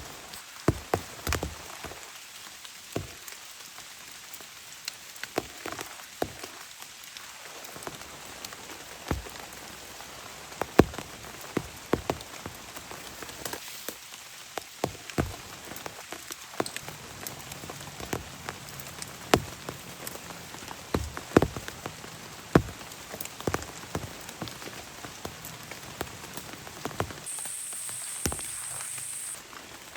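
Steady rain, with large drops landing as sharp, irregular taps scattered throughout.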